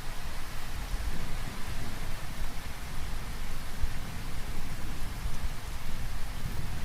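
Rain falling steadily, with a low rumble of thunder underneath.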